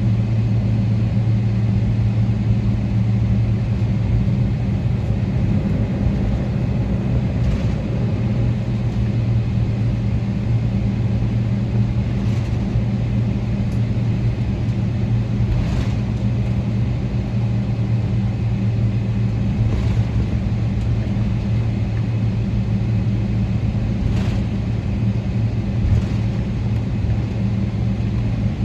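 Steady low hum inside the cabin of a Boeing 777-300ER on the ground, from its engines and cabin air, with faint knocks every few seconds.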